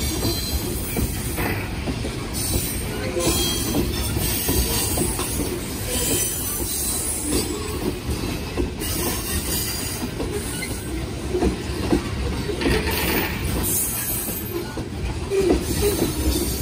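Freight cars of a gravel train rolling steadily past: a continuous rumble of wheels on rail with irregular clacks and an intermittent thin, high wheel squeal.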